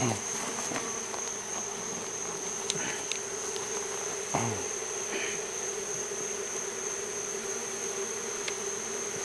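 Honeybee swarm buzzing steadily, the loose bees in the air around an open hive box being disturbed. Twice, at the start and about four seconds in, a brief buzz drops in pitch. A steady high-pitched insect trill runs underneath.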